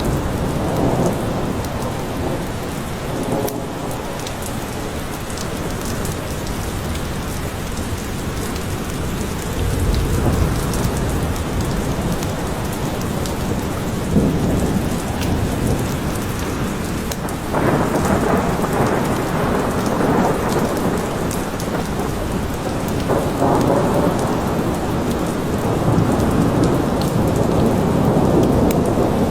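Steady rain falling with thunderstorm thunder, low rumbles swelling and fading several times over the rain.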